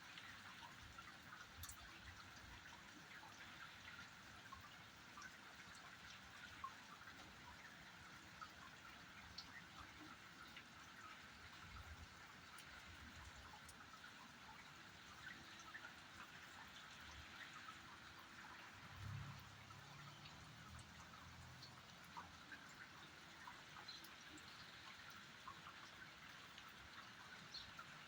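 Faint, steady rain with scattered single drops ticking through it. A brief low rumble comes about two-thirds of the way in.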